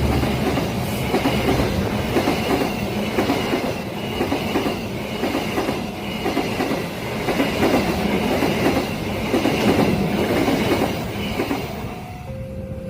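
A long passenger or freight train passing at speed, its wheels clattering in a steady rhythm over the rail joints, with a faint high whine. The sound fades toward the end as the last cars go by.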